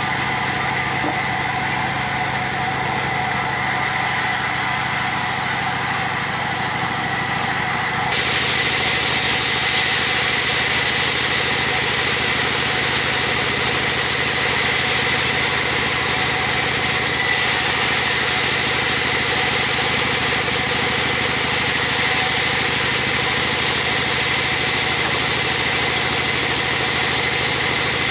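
A machine running steadily with a high whine, which turns louder and hissier about eight seconds in and then holds.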